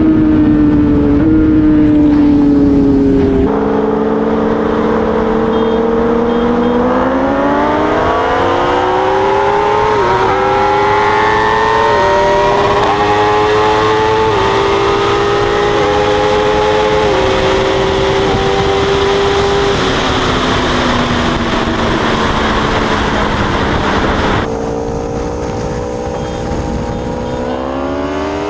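Inline-four sportbike engine at full throttle, heard from on board over heavy wind rush, its pitch climbing through the gears with a short drop at each upshift. It then eases off and falls in pitch. After a sudden cut, another hard acceleration climbs near the end.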